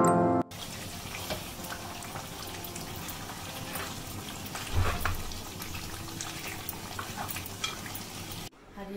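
Chicken curry frying in a metal pot, sizzling steadily, while a ladle stirs and scrapes through it with many small clicks. A dull thump sounds about five seconds in.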